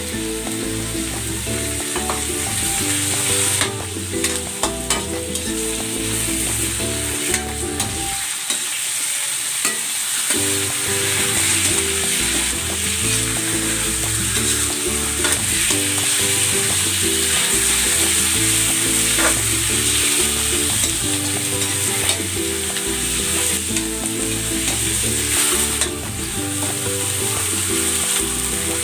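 Raw chicken pieces sizzling in hot oil in a metal wok with sautéed onion, garlic and ginger, a steady frying hiss. A spatula stirs them and scrapes them around the pan, with scattered clicks of the spatula on the metal.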